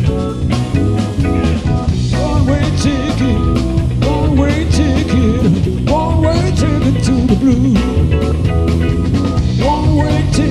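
Live blues-rock band playing an instrumental passage. A lead electric guitar solos with bending, sliding notes over bass and a steady drum-kit beat.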